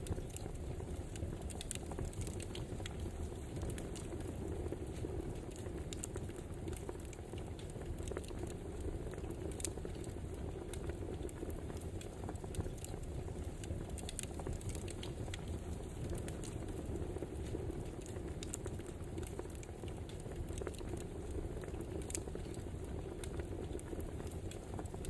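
Wood fire crackling: a steady low hiss and rumble with irregular small pops and snaps scattered throughout.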